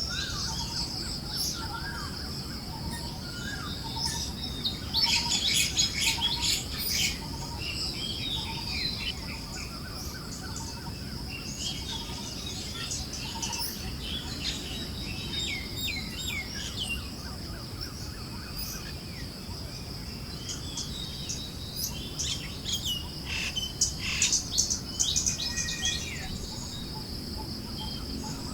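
Forest birds chirping and calling in a mix of short notes, busiest about five seconds in and again near the end, over a steady high drone and the soft low rush of wind.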